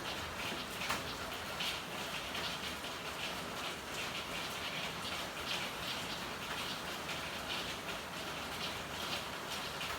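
Steady rain falling and pattering on hard surfaces, with uneven surges in the spatter and a small sharp tap about a second in.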